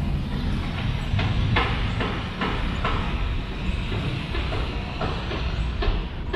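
BTS Skytrain passing on its elevated track: a steady low rumble with a faint rising electric motor whine and a run of regular clicks about twice a second.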